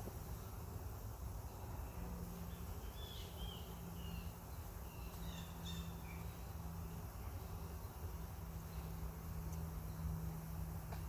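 Honeybees humming steadily around an opened hive, with a few short bird chirps a few seconds in.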